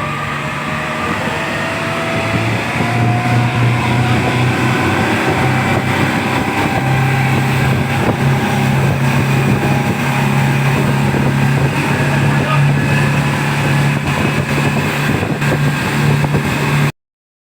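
Motorboat engine running steadily under way, with a rushing hiss of wind and water over it. It cuts off abruptly near the end.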